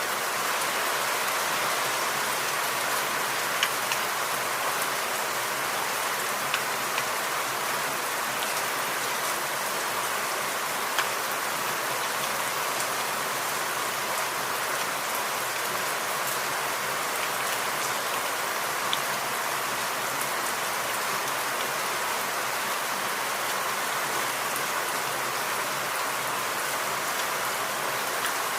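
Steady rain falling in a forest, with a few louder single drops standing out now and then.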